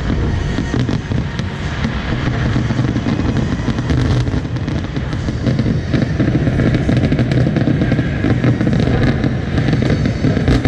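Aerial fireworks going off in a dense, continuous barrage: many rapid crackles and pops over a steady low rumble, with no gaps.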